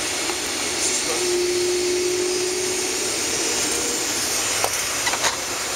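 Steady rushing cabin noise inside a Boeing 757-300 taxiing: jet engines at idle with the hiss of cabin air. A faint steady hum sounds for about two seconds, starting about a second in, and a few light clicks come near the end.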